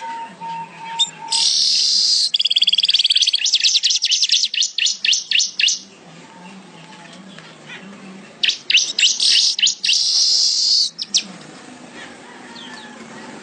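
A weaver bird (manyar) singing in two loud bursts a few seconds apart. Each burst mixes a buzzy, sizzling stretch with a rapid run of short, clipped notes.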